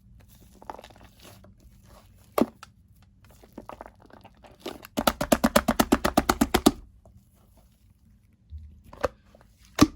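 Shaving foam mixture being mixed: scattered sticky pops and crackles, then about two seconds of rapid clicking pops, around eleven a second, midway through.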